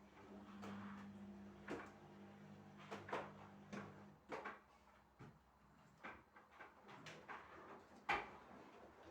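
Household knocks and clicks of things being handled and set down during cleaning, scattered and irregular, the sharpest about eight seconds in. A low steady hum runs underneath and stops about four seconds in.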